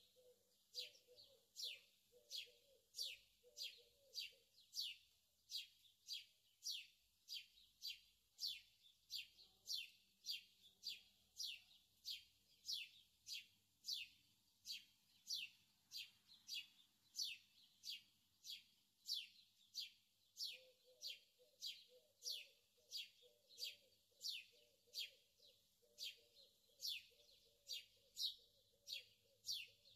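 A bird chirping over and over: short high chirps that fall in pitch, about two a second, in a steady unbroken rhythm.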